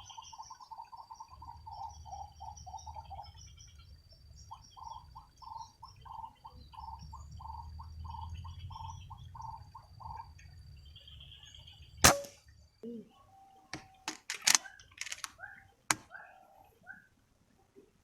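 A bird calling in a regular series of notes, about three a second, over a steady high insect drone. About twelve seconds in comes one sharp shot from a PCP Marauder air rifle, the loudest sound, followed by several clicks and knocks.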